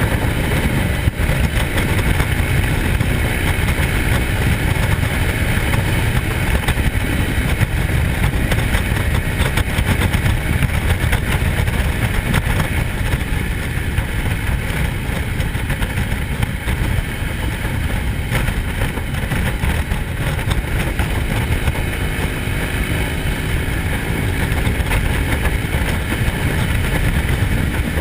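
Motorcycle engine running steadily, with a dense low rumble throughout.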